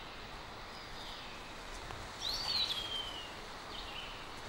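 Forest ambience: a steady low hiss with a bird calling. A clear whistled call about two seconds in rises, arches over and glides down, with fainter short calls before and after it.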